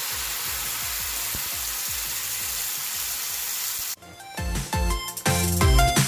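Homemade tomato salsa frying in hot oil in a cast iron skillet: a steady, loud sizzle that cuts off suddenly about four seconds in. Upbeat electronic background music with a steady beat runs faintly underneath and takes over near the end.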